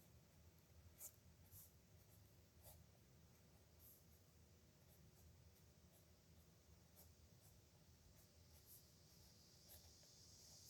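Faint pen strokes scratching on paper, short scratches at irregular moments with quiet between them. A soft high hiss rises near the end.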